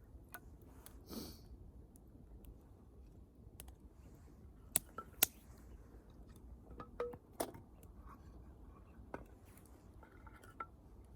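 Wood bonfire crackling quietly, with scattered sharp pops; the loudest two come close together about five seconds in.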